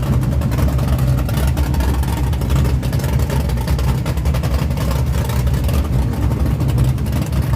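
Truck engines running with a steady low rumble.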